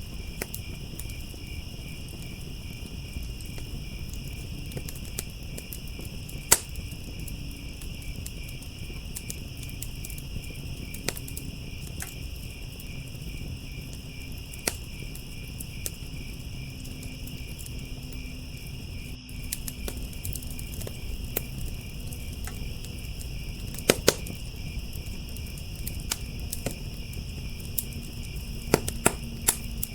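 Wood fire crackling, with scattered sharp pops and a few louder snaps, over a steady high pulsing chorus of crickets and a low rumble from the fire.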